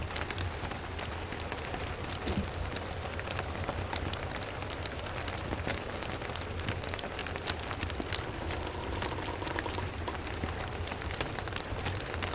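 Steady rain hissing and pattering, dense with small sharp ticks of drops, over a steady low rumble.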